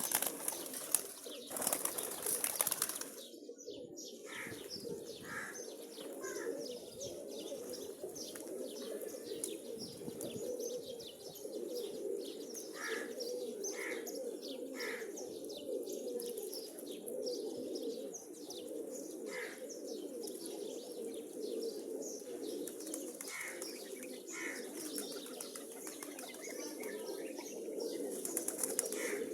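Pigeons cooing steadily, with a burst of wing flapping in the first few seconds and short higher chirps scattered throughout.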